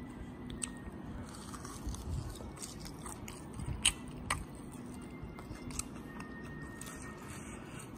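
A person biting into and chewing a fried banana fritter (cekodok pisang). Scattered small crunching clicks, with two sharper ones about four seconds in.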